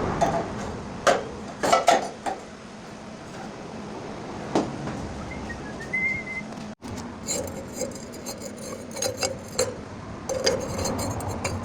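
Metal parts being handled and knocked together: a few sharp knocks in the first couple of seconds, then after a break a run of lighter clinks and taps.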